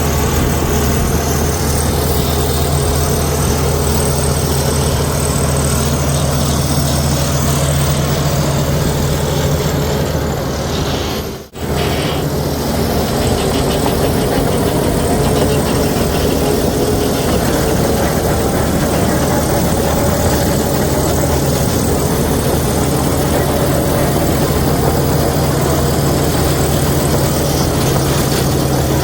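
Heavy diesel engine of a Komatsu D61EX crawler bulldozer running steadily at a constant low rumble. The sound drops out for a moment about eleven seconds in, then carries on unchanged.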